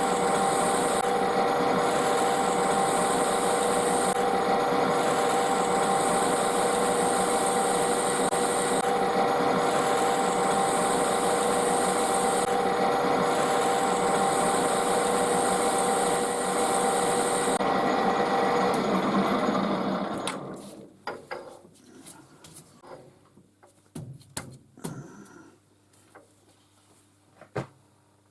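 Metal lathe running steadily while machining the end of a brass bar, then winding down and stopping about twenty seconds in. Scattered light clicks and knocks follow.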